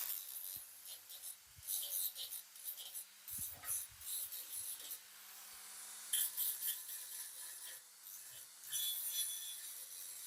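Hand abrasive work on a part: irregular scraping, rasping strokes, with a few light knocks about three and a half seconds in.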